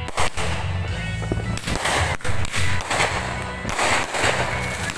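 Aerial fireworks bursting overhead: a series of sharp bangs and crackles, the loudest just after the start, around two and a half seconds in and about four seconds in, over steady music with a heavy bass.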